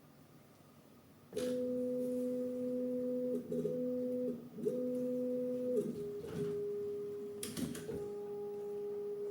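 Bambu Lab A1 3D printer's stepper motors running, a steady humming tone that starts about a second in, breaks off and restarts a few times, then drops to a lower pitch about halfway, with a few clicks near the end.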